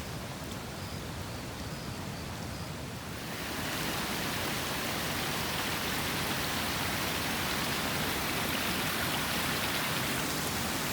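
Floodwater after a typhoon running as a stream across a clearing: a steady rush of flowing water that grows louder about three and a half seconds in.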